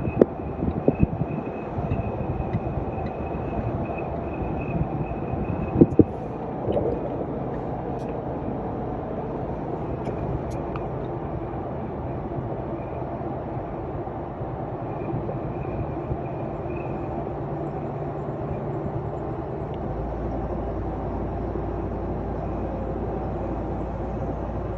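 Inside the cab of a 2021 Ram 1500 TRX on the move: steady engine and road noise, with a thin high whistle that fades in and out. The whistle is wind leaking into the cab at the passenger-side A-pillar. A few sharp knocks in the first second or so and again about six seconds in.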